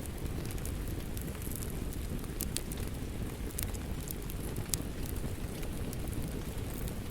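Wood fire crackling in a fireplace, with sharp scattered pops about once a second over a steady low rushing noise, mixed with the hiss of rain.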